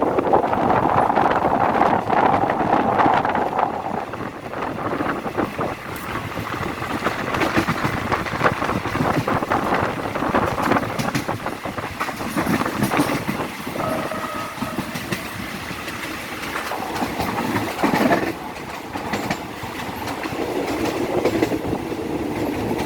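A train running past on the track, its wheels clattering over the rail joints in a steady rumble of repeated clicks. A short faint whine rises above it about two-thirds of the way through.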